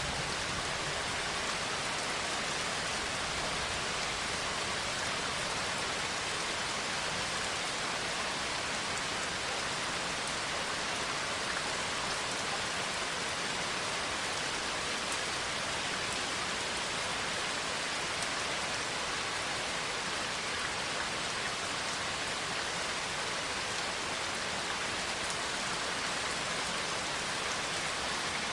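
Steady rain falling, a dense even hiss with no breaks or thunder.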